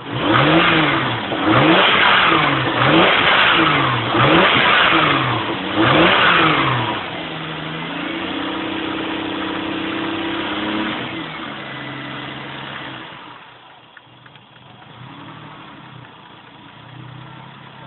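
Turbocharged Lexus SC300 inline-six engine, fitted with a billet 6765 turbo, being blipped about five times in quick succession on its first start-up, then held at a steady higher speed before settling back down to idle.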